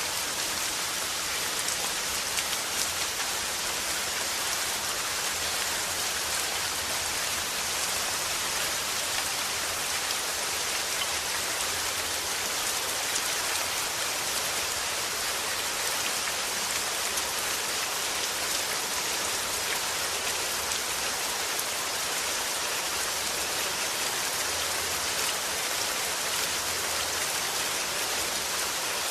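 Steady rainfall, a dense even patter of drops hitting a surface, with no change in strength.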